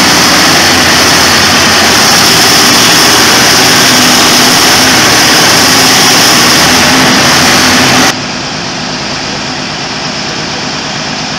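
Poclain 1000 excavator's V12 diesel engines running loud and steady. About eight seconds in the sound drops abruptly to a quieter, duller steady run.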